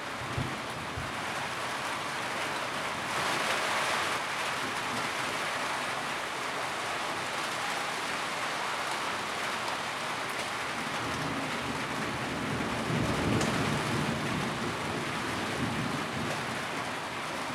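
Steady rain drumming on a tin roof, an even hiss with a brief heavier patch about three seconds in. A low rumble swells and fades a little past the middle.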